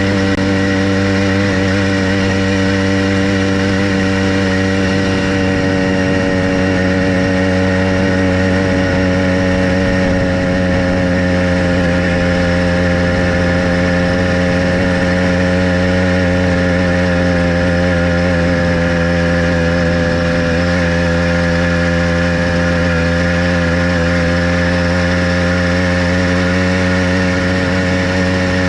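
Small gasoline engine of a motorized bicycle running at a steady speed, its pitch holding nearly constant with only slight wavering.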